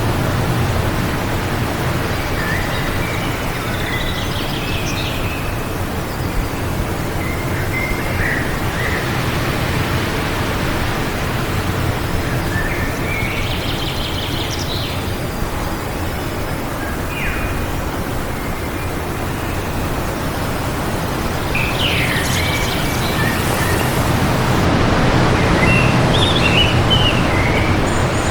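Steady wind blowing, with birds chirping in short phrases every few seconds.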